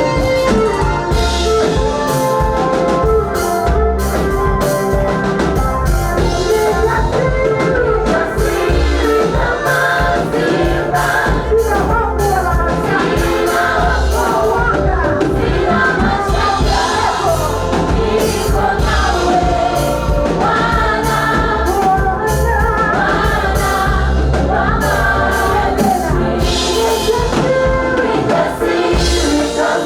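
A gospel choir singing a praise song over band accompaniment with a steady drum beat.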